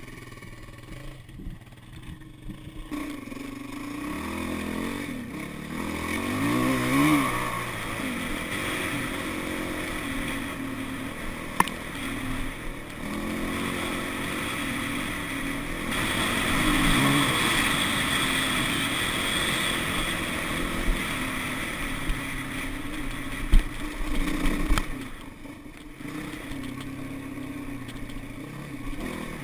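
Dirt bike engine running under way, its revs rising and falling as it is ridden, with a noisy rush over it. A couple of sharp knocks, and the engine eases off near the end.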